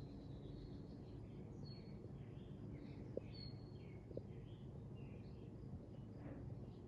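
Faint bird chirps and short whistled calls over a low steady background rumble, with two soft clicks about three and four seconds in.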